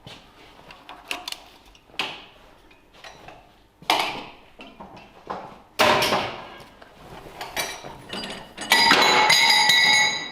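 Metal parts and hand tools knocking and clattering during tractor clutch work. Near the end a loud, steady, high-pitched mechanical whine runs for about a second and a half and then cuts off sharply.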